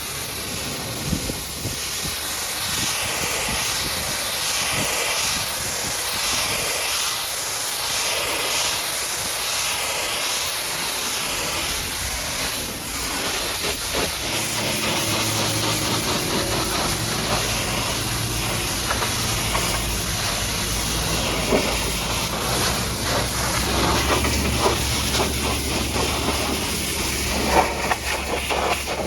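High-pressure water jet spraying a muddy truck: a steady hiss that swells and fades as the spray sweeps back and forth. About halfway a low steady hum joins in.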